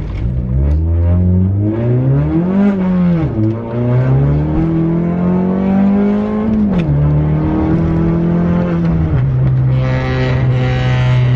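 Turbocharged 1.5-litre four-cylinder engine of a Honda Accord, heard from inside the cabin, pulling under acceleration. Its pitch climbs, falls back about three seconds in, climbs again and drops sharply about seven seconds in, then settles to a steady cruise. A rushing hiss comes in about ten seconds in.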